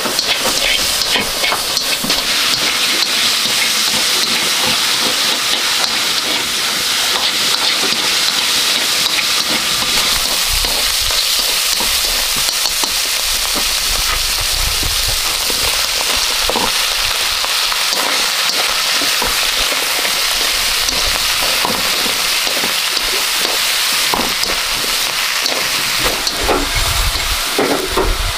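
Pork frying in a steel wok, with a steady sizzle. Wooden chopsticks stir it and tap the pan now and then, more often near the end.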